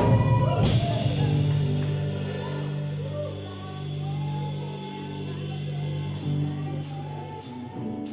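Live worship band music: held keyboard and bass chords under singing voices. A percussion beat of about two strikes a second comes in about six seconds in.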